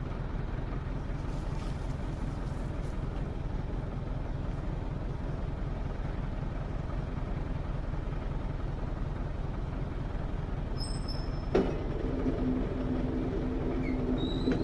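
Heavy machinery running with a steady low drone. About eleven and a half seconds in there is a clunk, then a steady higher-pitched whine joins the drone.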